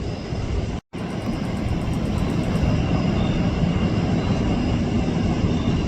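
Jet airliner engines, a steady rumble. The sound drops out for a split second just before one second in, then comes back somewhat louder.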